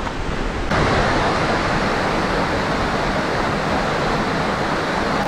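Monsoon-swollen stream rushing steadily, a dense noisy wash of water that jumps louder about a second in.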